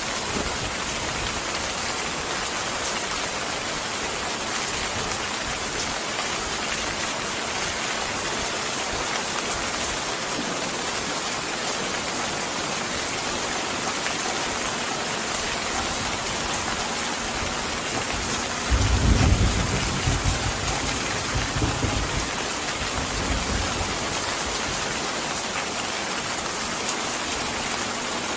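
Steady rain falling, with a low roll of thunder about two-thirds of the way through that swells suddenly and fades over a few seconds.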